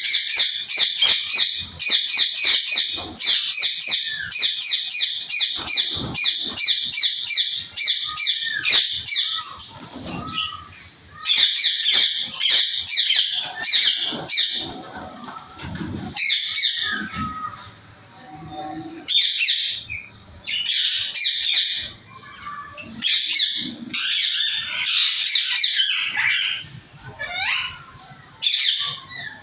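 A flock of small cage birds in an aviary chirping and chattering: a dense run of rapid, high, repeated chirps for about the first ten seconds, then shorter bursts of chirping with pauses between them.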